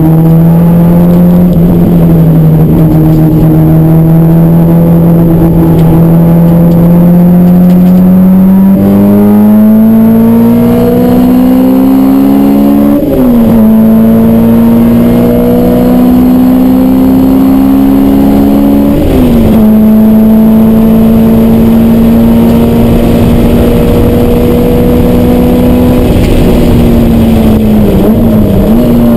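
A Honda B18C four-cylinder engine in a DC2 Integra Type R, heard from inside the cabin, pulling hard on track. Its pitch climbs steadily, drops sharply at a gear change about thirteen seconds in and again about six seconds later, then holds fairly level, with a brief dip near the end as the driver works the gear lever.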